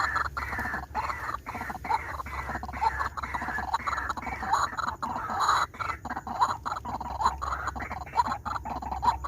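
White-breasted waterhen calls, short notes repeated without pause at about three a second, over a steady low hum.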